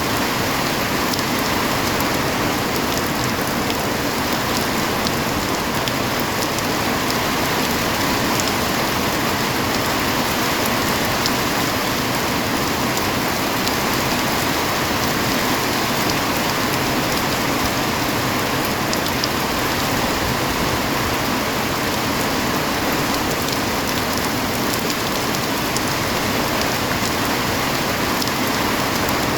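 Heavy rain falling steadily: an even hiss with scattered sharper drop hits.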